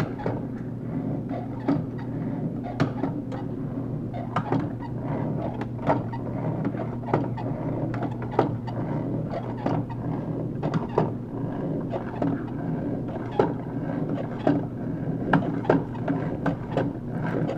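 3D-printed ABS plastic model of a dual overhead cam engine turning over, with a steady hum and irregular plastic clicks and clacks from its moving parts and printed chain, about one or two a second.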